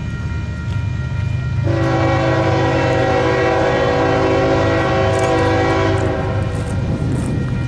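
Union Pacific diesel-electric freight locomotive sounding its multi-chime air horn in one long blast of about four seconds, starting a couple of seconds in and cutting off near the end, over the steady rumble of the passing train's diesel engines.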